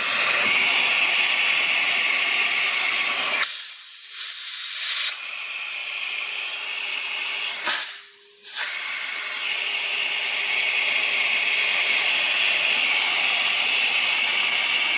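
Central vacuum drawing air through a working water lift gauge at the hose inlet: a steady rushing hiss of suction during a working water lift test. The sound thins out briefly twice, about three and a half seconds in and again about eight seconds in.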